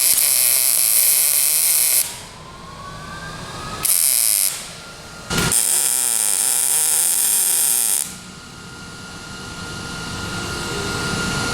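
Three abrupt bursts of harsh, hissing MIG plug welding on a steel door reinforcement plate, the last about two and a half seconds long. Then a grinder runs with a steady high whine that slowly grows louder.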